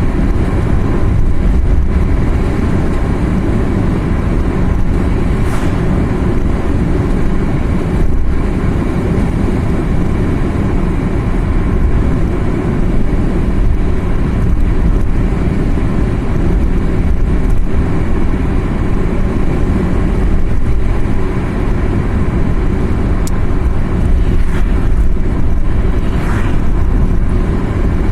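Car driving at steady speed: a continuous low rumble of engine and tyre noise.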